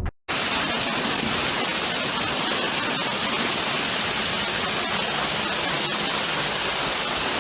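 Loud, steady hiss spread evenly across all pitches, cutting in abruptly after a moment of silence and holding level throughout.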